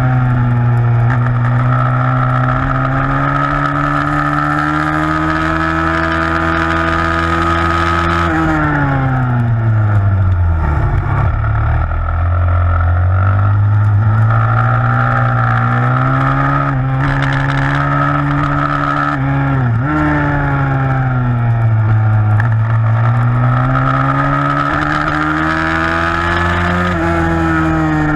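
A 160 cc single-cylinder four-stroke pitbike engine, held at high revs with the throttle opened and closed. The revs drop sharply twice, about ten seconds in and again about twenty-two seconds in, as the rider rolls off, then climb back under acceleration. There is a brief dip in between, like a gear change.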